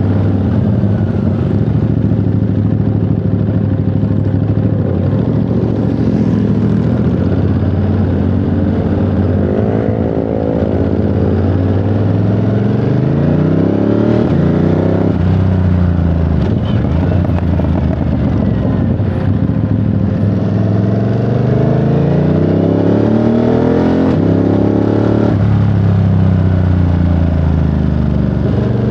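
Ducati Monster 937's 937 cc L-twin engine pulling on the road. Its pitch climbs as the bike accelerates and drops sharply at gear changes about halfway through and again near the end.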